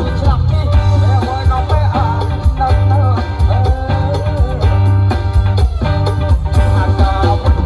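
Khmer kantrum-style band music in a steady 4/4 beat, with a heavy bass pulse and a bending, wavering melody line over it.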